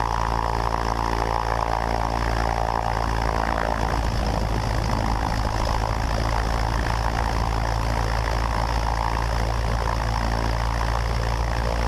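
Cessna 172's piston engine and propeller held at about 1700 RPM for the pre-takeoff run-up, a steady, unchanging engine drone.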